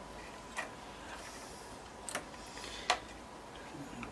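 A few sharp clicks and light knocks from handling the motherboard and parts inside a desktop PC case, the loudest about three seconds in.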